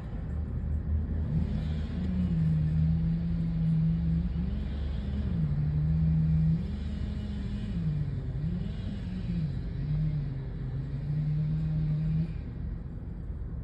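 Chainsaw running at high throttle while cutting into a large tree trunk. Its pitch sags several times as the bar loads in the cut and then climbs back, over a low engine hum.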